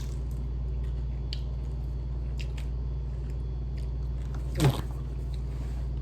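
A person biting and chewing crispy refried chicken feet, with faint scattered crunches over a steady low hum. A short voiced sound, falling in pitch, comes about four and a half seconds in.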